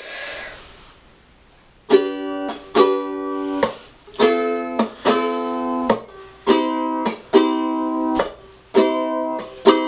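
Concert ukulele strumming chords in a steady rhythm, starting about two seconds in, each strum ringing on until the next.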